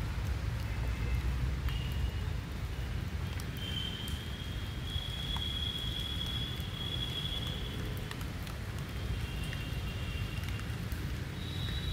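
Steady rain falling on wet ground and foliage, with scattered drop ticks over a low rumble. A thin high tone comes and goes, held longest for a few seconds in the middle.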